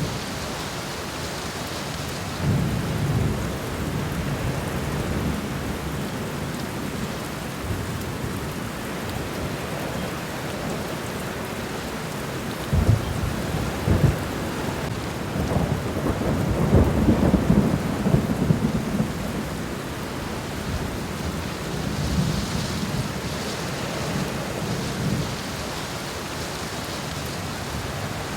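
Steady rain falling on the ground in a garden. Low rumbles swell up several times over the steady hiss, the loudest about two-thirds of the way through, with two sharper thuds just before it.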